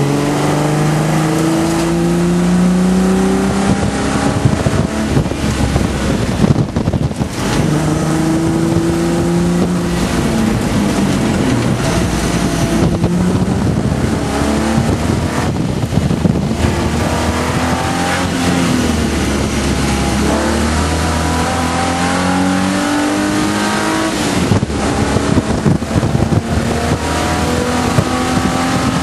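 Holden VP Commodore's 3.8-litre V6 engine heard from inside the cabin under race-track driving. It repeatedly climbs in pitch under acceleration and drops back when the throttle eases, with road and wind noise throughout.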